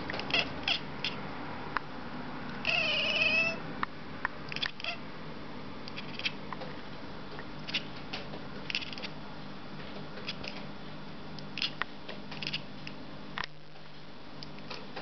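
Domestic cat making short, repeated chirping calls at a bird it is watching, with one longer wavering meow about three seconds in.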